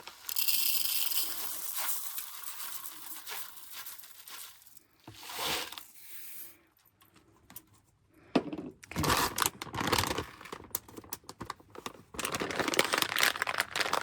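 Dry rice being measured out by the beakerful: a packet crinkling and rustling in bursts, with grains clicking and pouring.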